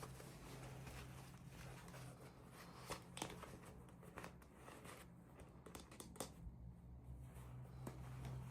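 Faint, scattered clicks and light rustles of small plastic packaging and miniature toy pieces being handled, over a steady low hum.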